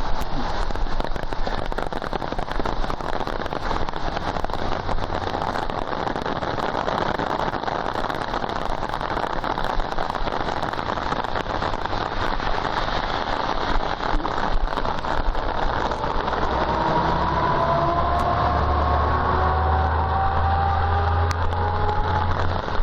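Torrential guerrilla downpour pouring steadily, coming down like a waterfall. About two-thirds of the way through, a low steady hum with a faint slowly rising whine joins the rain, then stops shortly before the end.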